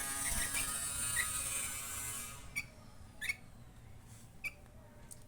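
A few short, high cheeps and light ticks from a young sooty-headed bulbul while it feeds, spaced a second or so apart. For the first two seconds a steady high hiss with faint steady tones runs under them, then stops.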